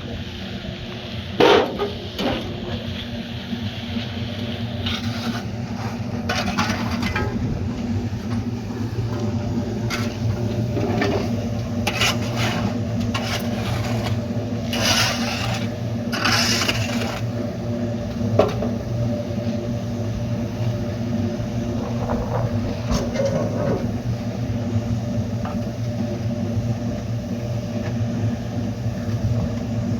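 A motor running steadily with an even drone, with scattered scrapes and knocks over it and one sharp knock about a second and a half in.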